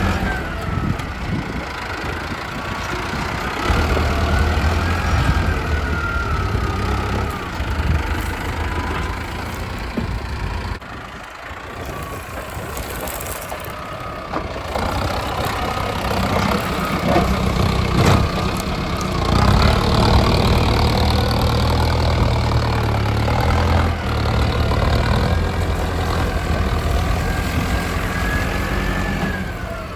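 Mahindra Arjun Novo 605 DI tractor's diesel engine running under changing load while pushing with a front dozer blade. A higher whine rises and falls in pitch several times, and the sound drops briefly about eleven seconds in.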